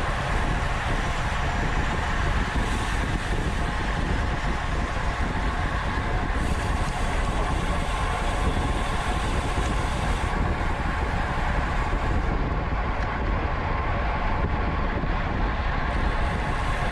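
Steady rush of wind and tyre noise from a road bicycle riding at race speed, with no sharp events.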